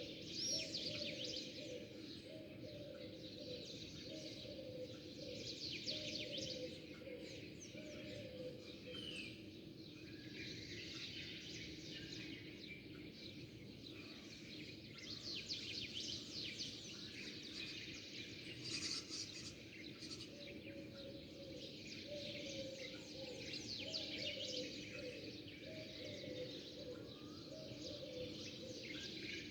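A flock of small birds chirping and twittering continuously, with many overlapping high chirps. Twice, a lower run of short, repeated falling notes sounds beneath them.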